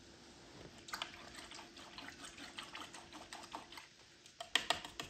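Paintbrush dabbing and tapping paint onto a canvas in quick, irregular taps, with a louder run of taps near the end.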